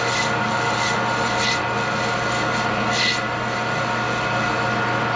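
Metal lathe running with a steady hum. A scraping hiss from metal being worked on it rises a few times, about every one and a half seconds.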